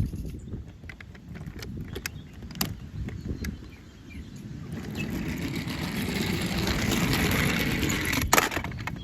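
Small plastic toy vehicles handled and rolled on a hard surface: a low rolling rumble with scattered clicks and knocks, swelling into a steadier rolling noise about halfway through, with a sharp knock near the end.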